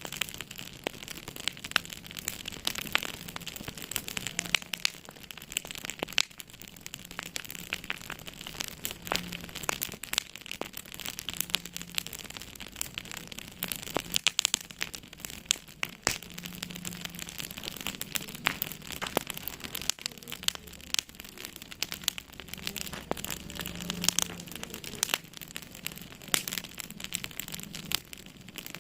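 Wood fire crackling in a fireplace: frequent irregular pops and snaps over a soft steady hiss.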